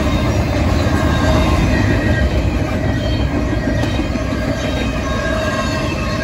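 Double-stack intermodal well cars of a BNSF freight train rolling past: a loud, steady rumble of steel wheels on the rails, with faint high tones coming and going on top.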